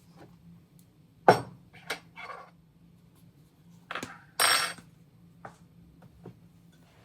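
Kitchenware being handled: a sharp clink about a second in, a couple of lighter knocks just after, then a short clatter of dishes or utensils about four seconds in, with a few faint ticks between.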